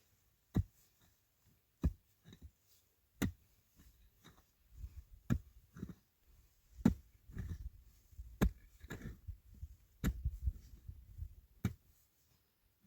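A series of sharp knocks, about one every second and a half, with low scraping and handling noise between them.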